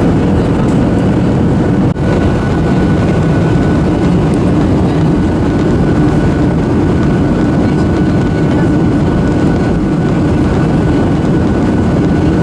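Steady cabin noise inside a Boeing 737-800 in flight: the low rumble of its CFM56 jet engines and rushing airflow. About two seconds in there is a brief dip, after which a faint high steady tone joins the noise.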